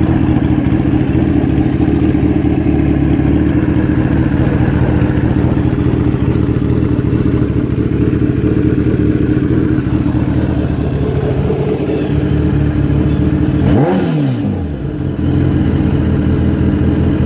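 2015 Kawasaki ZX-10R's inline-four running steadily through a Coffman's slip-on exhaust, with a brief change in pitch near the end.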